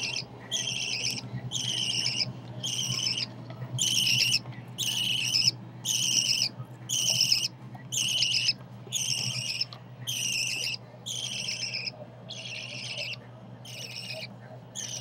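Baby budgerigar, about four weeks old, calling over and over, one call roughly every second.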